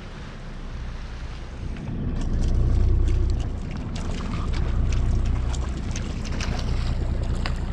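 Low rumble of wind and water around a small boat at sea, swelling about two seconds in, with irregular small splashes and clicks.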